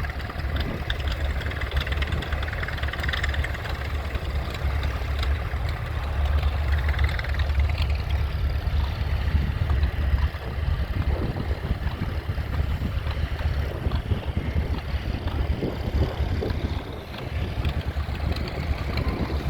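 Tractor engine running steadily, a low continuous rumble.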